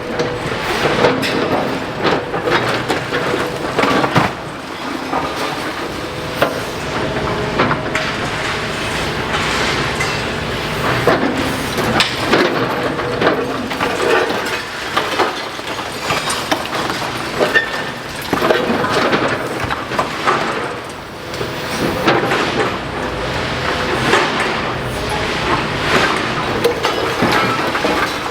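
A demolition excavator working into a building: a steady mechanical rumble with frequent cracks, knocks and clattering of breaking and falling masonry rubble.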